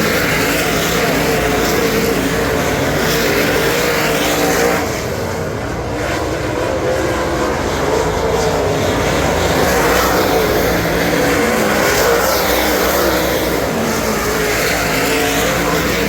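Ford 422 cubic inch V8 of a dirt super late model running hard at racing speed. It eases off briefly about five seconds in, then pulls back up to full power.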